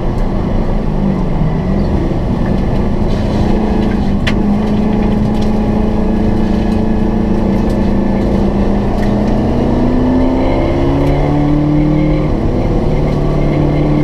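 Heritage Group A and Group C touring race cars on track, their engines running loud and continuous. The engine note holds steady for most of the stretch, then climbs in pitch over the last few seconds as they accelerate.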